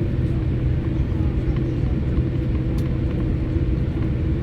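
Steady rumble and hum inside a jet airliner's cabin on the ground before takeoff.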